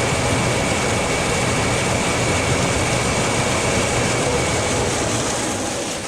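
Steady machinery running, a loud even roar with a thin high whine over it, dying away near the end.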